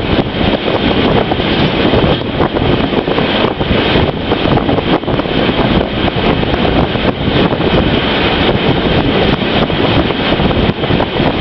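Steady running noise of a moving train, with wind buffeting the microphone.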